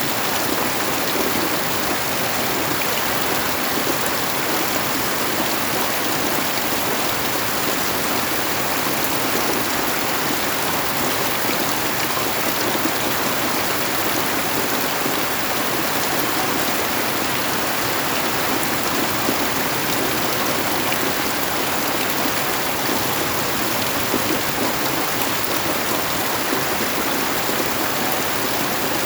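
Steady rain falling: a dense, even hiss that holds the same strength throughout.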